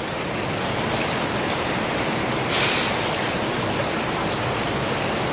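Underground cave stream running steadily, an even rushing hiss of flowing water, with a brief louder hiss about two and a half seconds in.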